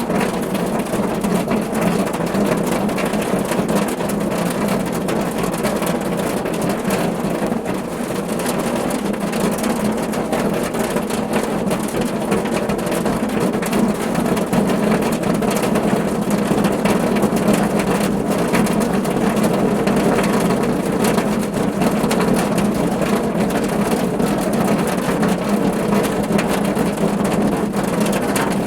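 Steady rain drumming on a car's roof, a dense, even patter of many drops.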